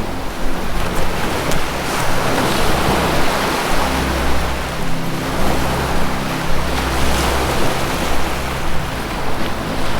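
Ocean surf washing continuously, a steady dense rush of water. Underneath it runs a low, sustained music drone whose notes shift slowly.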